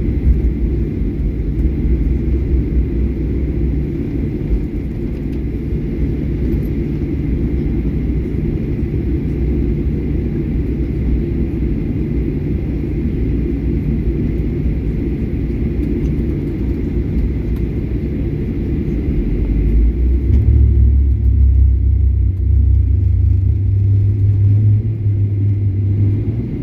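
Boeing 737-800 airliner making a steady low rumble. About twenty seconds in, a deeper hum grows stronger and the sound gets slightly louder.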